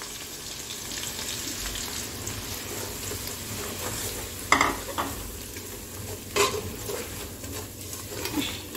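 Ground egusi frying in hot palm oil in an aluminium pot: a steady sizzle while a wooden spoon stirs it, with a couple of sharp knocks of the spoon against the pot around the middle.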